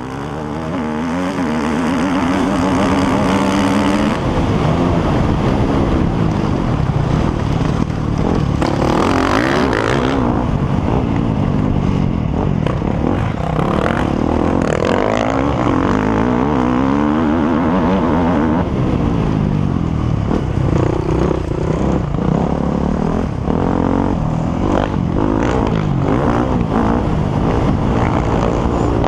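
Several motocross motorcycle engines running and revving together, their pitches rising and falling and overlapping as the bikes ride. The sound fades in over the first couple of seconds.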